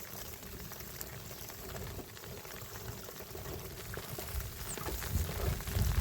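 Steady rush of water, with dull low thumps in the last couple of seconds.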